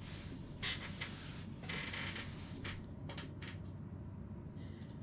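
Clothing rustling in about five short bursts as two people shift close into an embrace. Under it runs a steady low rumble of train ambience.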